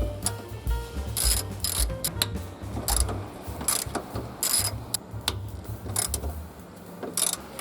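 Irregular clicks and snaps of a car door mirror's cover and parts being handled and pried apart with hand tools, over background music.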